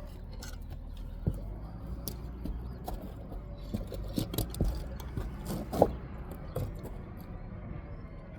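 Brick-laying work: scattered taps, knocks and scrapes of a trowel, mortar and bricks being handled, with a sharp knock about a second in and a louder one past the middle, over a steady low hum.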